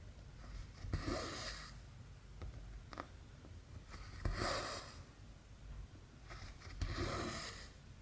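Cotton embroidery thread drawn through stamped cross stitch fabric, a rasping swish about three times, roughly three seconds apart, with a few faint needle clicks against the fabric between the pulls.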